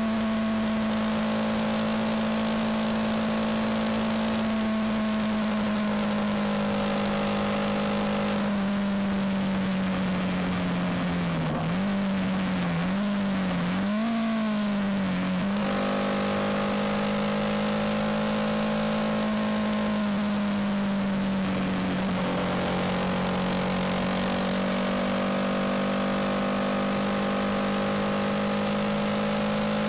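Yamaha MT-125 motorcycle's single-cylinder four-stroke engine running at steady revs under way, over a hiss of wind and road. Around the middle, the revs dip and rise three times in quick succession, then settle a little lower.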